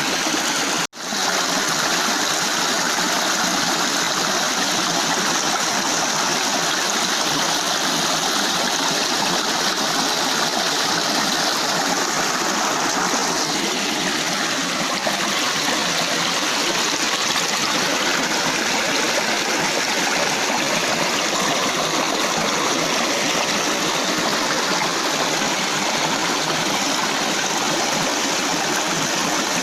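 Steady rush of flowing water, rain runoff streaming along a channel, with a brief break about a second in.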